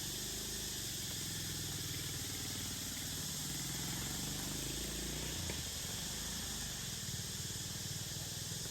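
Steady outdoor ambience: an even high hiss with a low rumble beneath it and no distinct events.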